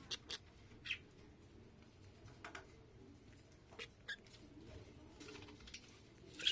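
Budgerigar chick giving faint, short squeaky begging chirps while being fed, about seven in all and spaced irregularly, the loudest right at the end.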